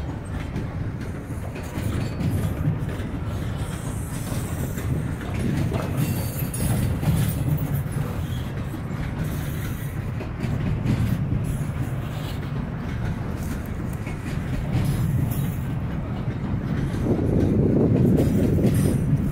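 Freight train cars rolling past: a steady rumble of steel wheels on rail with occasional clicks, growing louder near the end.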